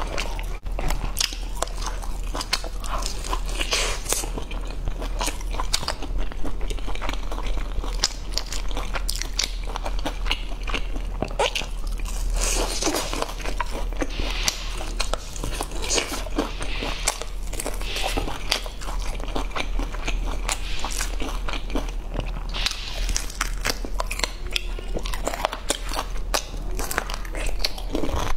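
A person chewing and biting into crisp, sauce-coated fried meat: a continuous stream of crunches and small clicks.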